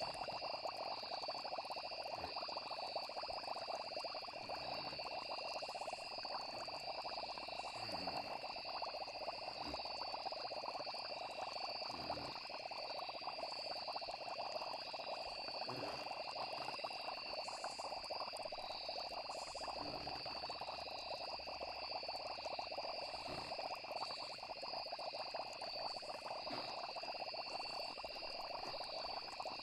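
Night nature ambience: a steady chorus of frogs with insects trilling continuously at a high pitch. Short low falling blips come every few seconds.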